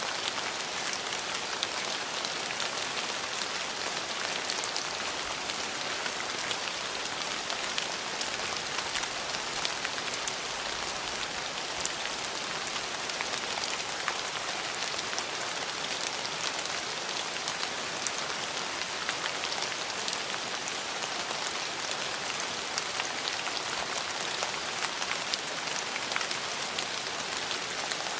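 Steady rain falling, a dense even hiss with many individual drops ticking on hard surfaces.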